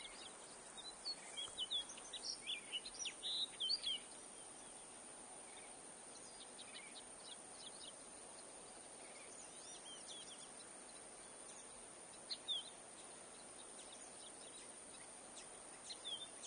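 Songbird singing: a rapid, jumbled phrase of high chirped notes begins about a second in and lasts about three seconds, followed by scattered chirps and two short phrases later on, over a steady outdoor hiss.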